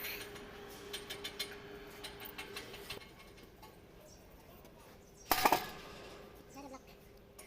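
Metal tools and parts being handled: a run of light metallic clicks and clinks, then one loud metal clatter about five seconds in, over a faint steady hum.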